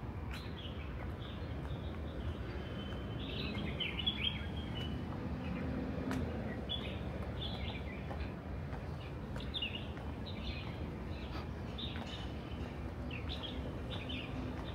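Small birds chirping in short, repeated calls over a steady low background hum.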